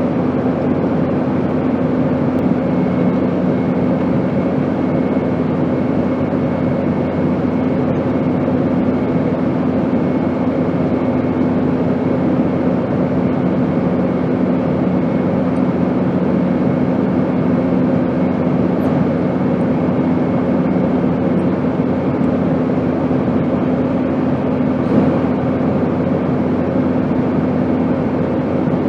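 Airplane noise: a steady rushing drone with a low hum running through it, unchanging throughout.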